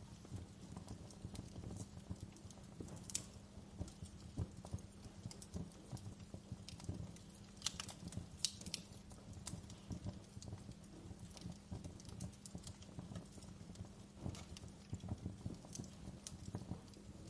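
Wood fire crackling in a fireplace: irregular small pops and snaps over a low steady rumble, with a few sharper pops about three seconds and eight seconds in.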